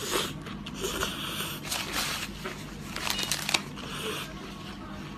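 Close-miked eating sounds: chewing and wet mouth noises in irregular short bursts, the loudest about three and a half seconds in.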